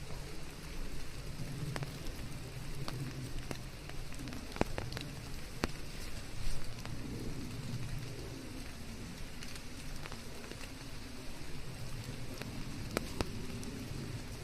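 Steady rain with scattered drop ticks over a low rumble, mixed with white noise.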